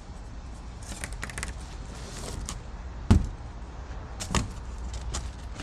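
Scattered clicks and knocks of something being handled, with one heavy thump about three seconds in and another knock just after four seconds, over a low steady rumble.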